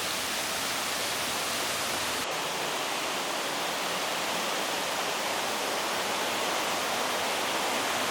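Steady rushing of a rainforest waterfall, an even wash of falling water with a slight change in tone about two seconds in.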